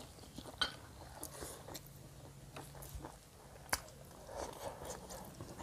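Faint close-up eating sounds: chewing and soft mouth and finger clicks as rice and buffalo curry are eaten by hand, with one sharper click a little past halfway.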